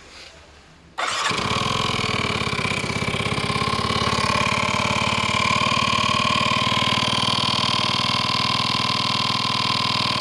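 Yamaha Jog SA36 scooter engine starting about a second in, then idling steadily with a high-pitched tone running over it. The scooter is carrying an extraneous noise that its owner cannot identify.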